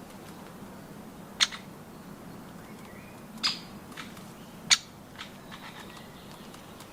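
A bird pecking at nuts: three sharp single taps, a second or two apart, with faint bird chirps between them.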